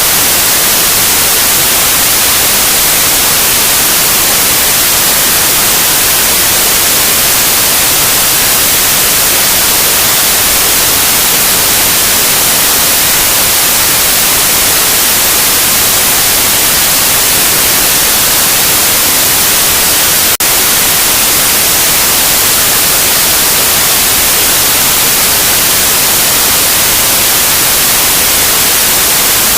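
Loud, steady white noise, a hiss strongest in the high range, with one momentary glitch about twenty seconds in.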